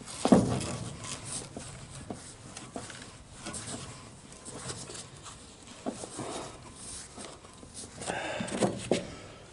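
Hand-tool work on a trailer: a sharp knock with a thump just after the start, then scattered clicks, knocks and scraping as an already broken-loose fastener is worked out.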